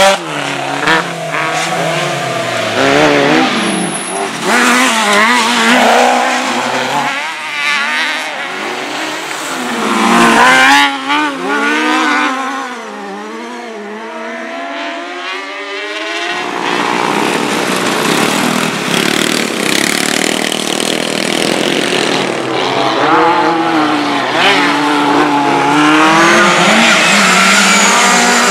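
Race car engines revving hard as cars race past, the pitch climbing and dropping with each gear change, several engines overlapping. The sound eases off for a few seconds about halfway, then builds again into a steady mix of engines near the end.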